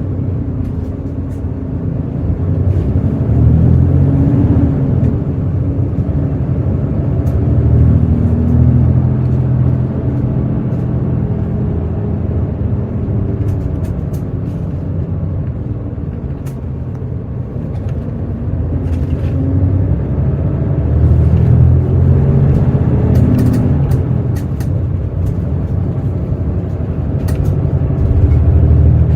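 Hino J08E inline-six diesel engine of a Hino RN8JSVU bus, heard from inside the cabin, running at low speed. It picks up in pitch and level a few times: a few seconds in, about two-thirds through, and again near the end.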